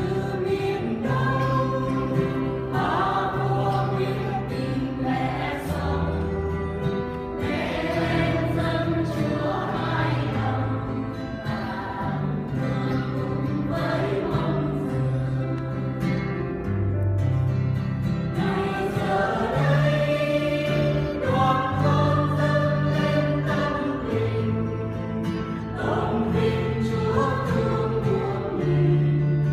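Church choir singing in harmony over instrumental accompaniment, with long held bass notes that change every second or two.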